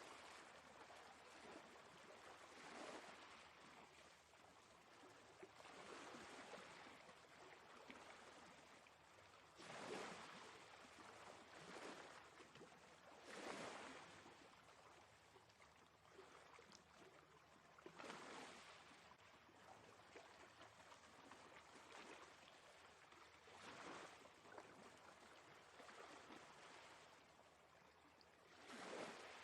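Faint sea waves washing ashore, the surf swelling and ebbing every few seconds.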